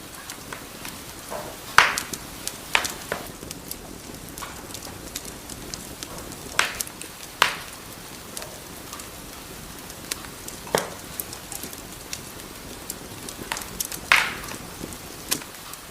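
Wood fire burning in a fireplace: a steady soft hiss with irregular crackles and sharp pops, the loudest pops about 2, 7 and 14 seconds in.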